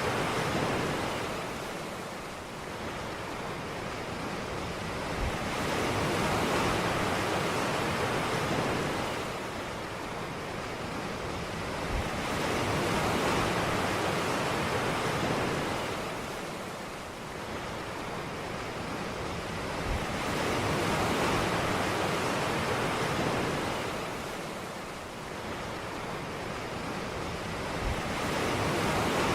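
Ocean surf washing onto a beach, each wave swelling and ebbing in a slow, regular cycle of about seven to eight seconds.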